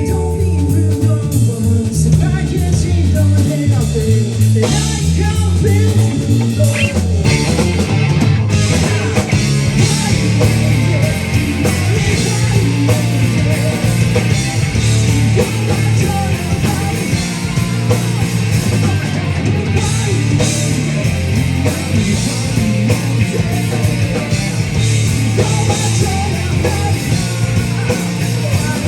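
Live rock band playing electric guitar, bass guitar and drums, with singing. The band comes in fuller about eight seconds in, with brighter cymbals.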